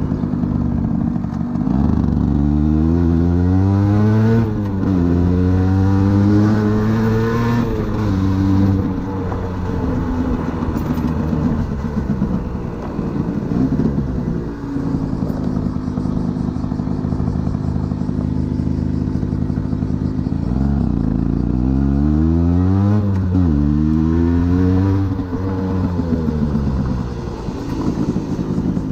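Aprilia 50cc motorcycle engine accelerating through the gears, its pitch climbing and dropping with each shift. It does this in two spells, one early and one about three quarters of the way in, and runs at a steady pitch between them.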